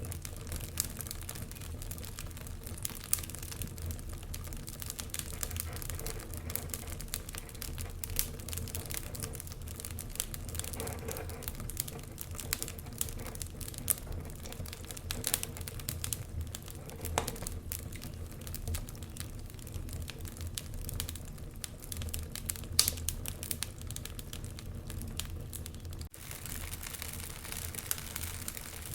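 Wood fire burning in a fireplace: continual crackling with frequent small snaps and a few louder pops, over a low steady rumble.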